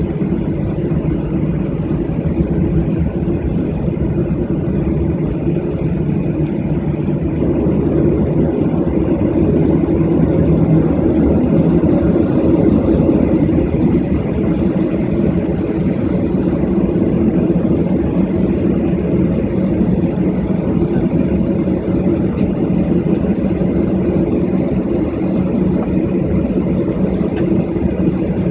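Steady droning cabin noise inside a jet airliner on the ground before take-off, with its engines and air system running.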